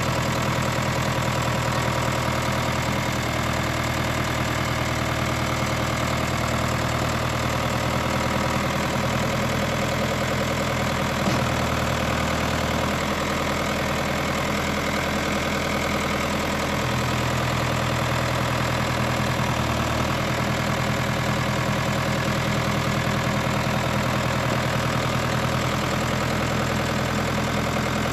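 Ford tractor engine running steadily at low speed, with brief changes in its note about eleven and twenty seconds in.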